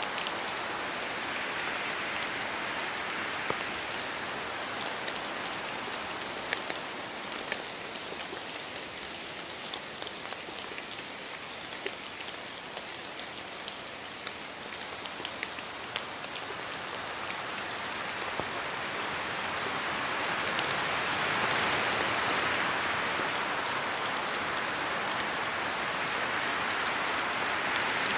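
Steady rain falling, a continuous hiss with many separate drops ticking through it. The wash swells louder about two-thirds of the way through.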